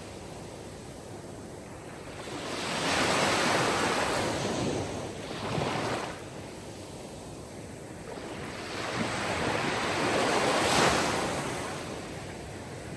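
Sea surf: waves washing in, swelling and ebbing twice, with a surge about three seconds in and another just before the end.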